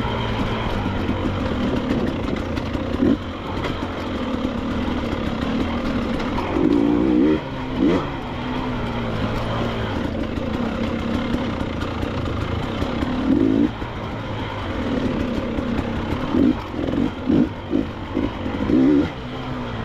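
Two-stroke KTM 300 XC-W enduro dirt bike engine running at low revs. The throttle is opened in short bursts about seven seconds in, and there are several quick blips near the end.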